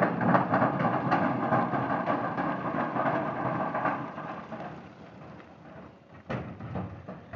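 Rumbling noise of a vehicle in motion that fades away over the second half, with a sharp knock about six seconds in.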